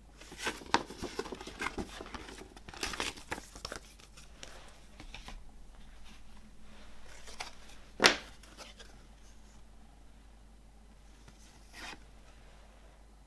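Packaging being handled, crinkling and rustling in quick bursts for the first four seconds or so, then a single sharp knock about eight seconds in and a soft brush of handling near the end.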